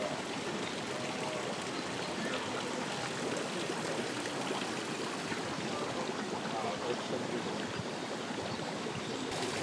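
Steady rushing and bubbling of volcanic hot-spring water.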